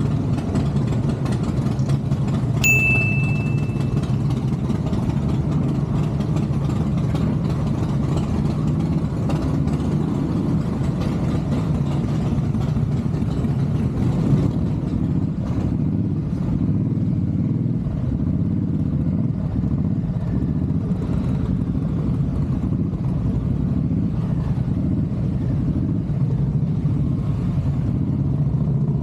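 Motorcycle engine running steadily at an even pace, with a short high-pitched beep about three seconds in.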